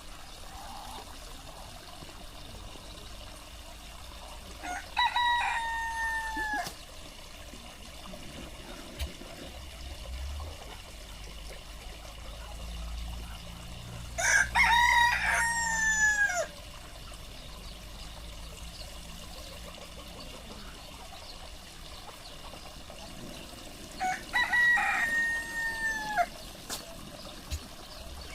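A rooster crowing three times, about ten seconds apart; each crow lasts about two seconds and ends on a long falling note.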